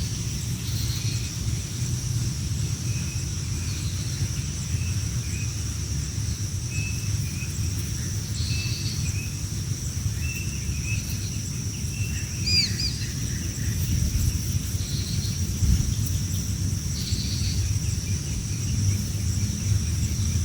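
Birds giving short, scattered chirps over a steady high insect buzz, with a constant low rumble underneath.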